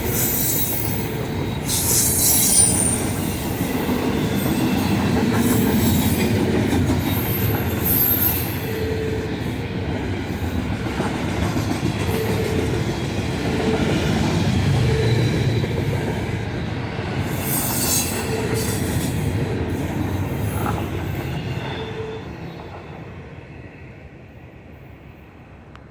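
Intermodal freight train cars rolling past with a steady rumble of wheels on rail and several short bursts of high wheel squeal. The sound dies away near the end as the train moves off.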